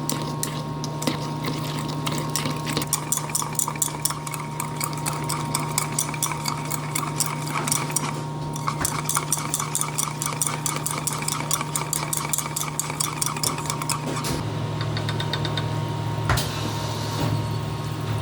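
A utensil beating batter in a mixing bowl, making a quick, regular clinking against the bowl that stops briefly about eight seconds in and then carries on, over a steady electrical hum.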